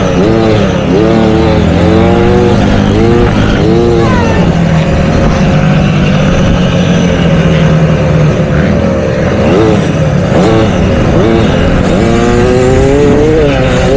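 Motocross dirt bike engine revving, its pitch rising and falling in quick repeated surges of throttle and gear changes, holding steadier for a few seconds in the middle before surging again near the end.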